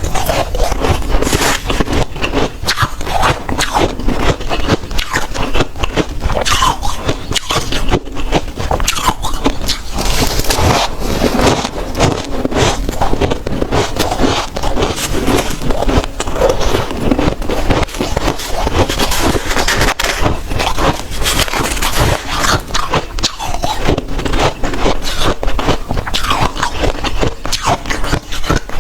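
Soft, dry freezer frost being bitten and crunched close to the microphone: a dense, unbroken run of crackling crunches.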